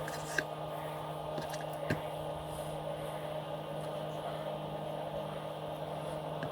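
A steady background hum, with two light clicks about half a second and two seconds in.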